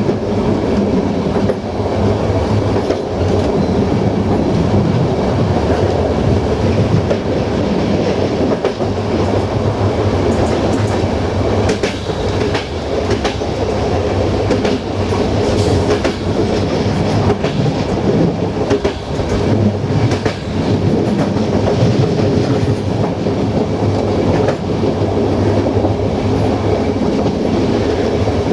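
Passenger train coaches running at speed, a steady rumble of steel wheels on rail, heard from inside the last coach. Short clicks from the wheels come through it now and again, most of them in the middle stretch.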